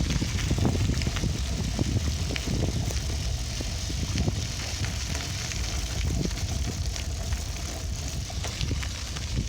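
Bicycle riding noise: wind rumbling on the microphone, with many small crackles and rattling clicks, and a faint steady tone for a few seconds in the middle.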